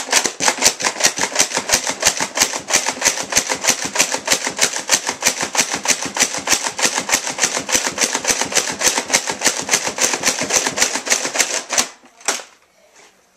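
Nerf Raider CS-35 dart blaster slam-firing: the pump is worked rapidly with the trigger held, giving a fast, even run of plastic clacks and dart shots at about five a second. The run stops abruptly near the end, followed by one more click.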